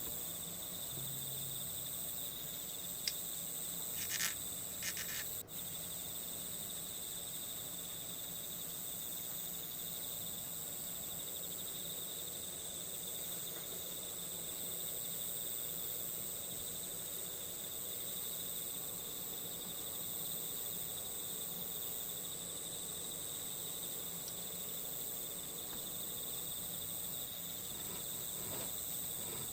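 Steady, high-pitched chirring of an insect chorus, typical of crickets, running unbroken. A few brief clicks fall about three to five seconds in.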